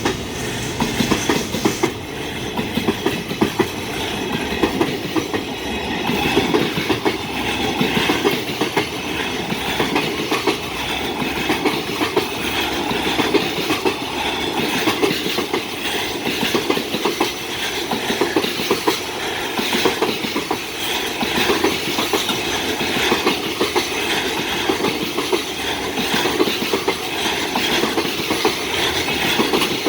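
Long freight train of container wagons rolling past at speed, the wheels clacking steadily over the rail joints.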